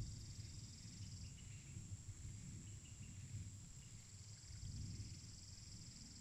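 Forest insects: a steady high-pitched drone, with a pulsing cricket-like trill that sounds for about the first second and again near the end, over a faint low rumble.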